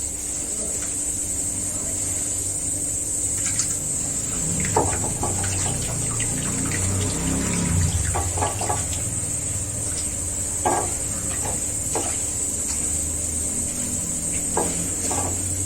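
Water being poured onto coarse salt in a bowl so that the salt dissolves, with a few light clicks of utensils against the dish.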